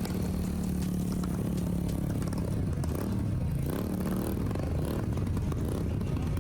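Motorcycle engine running steadily, its pitch wavering briefly about three and a half seconds in, with scattered clicks and clatter around it.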